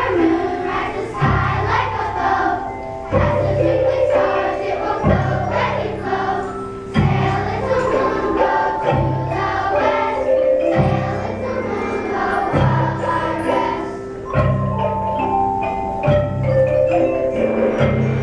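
Elementary school children's choir singing with an instrumental ensemble, including mallet percussion, and a low bass note entering about every two seconds.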